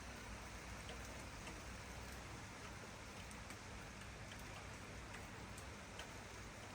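Steady light rain falling, with scattered individual drops ticking through it.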